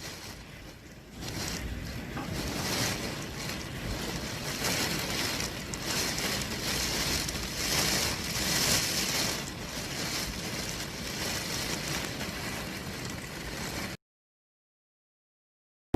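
Typhoon wind and water: a steady rushing hiss of wind-driven water with sloshing waves. It cuts off abruptly about two seconds before the end into dead silence.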